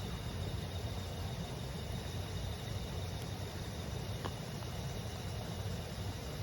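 A stream murmuring steadily, with insects, crickets among them, chirring in a steady high trill over it; burning firewood gives one faint pop about four seconds in.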